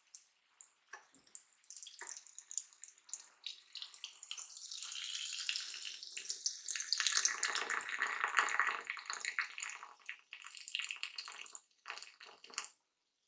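Close-miked chewing of a crispy fried cheese dog coated in crushed crisps and panko: a dense crackle of crunching that builds to its loudest in the middle and fades away near the end.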